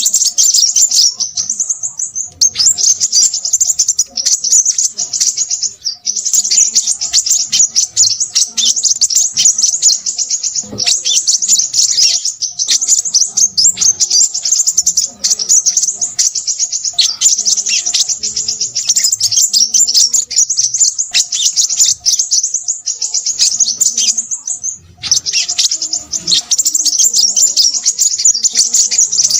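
Crimson sunbird singing a loud, busy song of rapid, high-pitched chirps and twitters in long runs broken by brief pauses.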